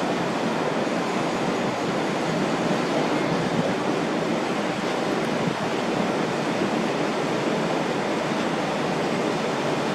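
Steady rushing of water and wind from a fast catamaran ferry under way, with no engine note standing out.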